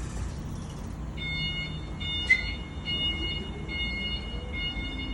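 Vehicle reversing alarm beeping, starting about a second in and repeating in long tones with brief gaps, over a low diesel engine rumble. A single sharp click about two seconds in.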